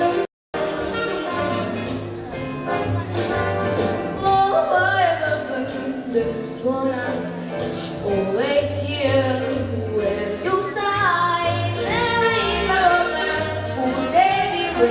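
A female singer sings a lullaby-style song with orchestral accompaniment. Her voice comes in about four and a half seconds in, after a short instrumental passage; the sound cuts out for a moment just after the start.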